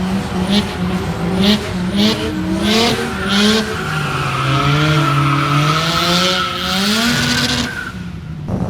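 Turbocharged drag cars at the start line. An engine is blipped about every half second with sharp crackles, then held at high revs for about four seconds with a steady tyre squeal, rising in pitch before it cuts off near the end.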